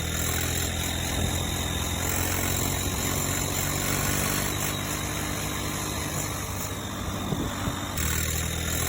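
Tractor engine running steadily at a low idle, with a brief abrupt shift in the sound near the end.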